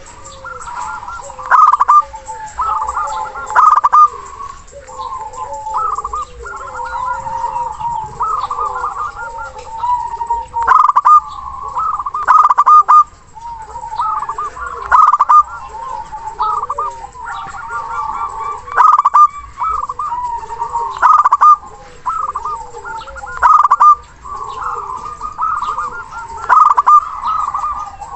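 Local perkutut (zebra dove) cooing, a rapid run of short, bubbling pitched notes repeated in phrases, with louder accented notes about every two seconds: the deep, full-voiced song used as a lure to set other doves calling.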